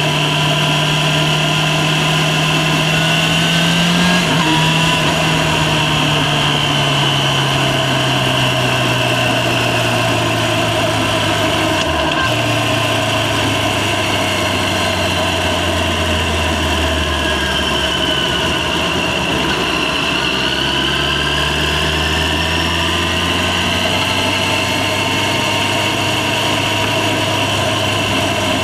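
Yamaha FZ6's inline-four engine running while riding, heard from the rider's position. The engine note rises briefly, then falls slowly over some fifteen seconds as the bike slows, with a short click about twelve seconds in, and climbs again in the last third as it accelerates.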